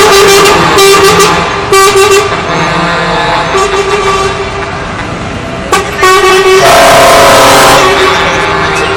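Truck air horns sounding in several very loud blasts over running truck engines, the longest blast held for about two seconds near the end.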